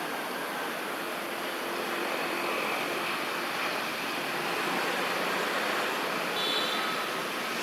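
Steady rushing background noise, with a short high chirp about six seconds in.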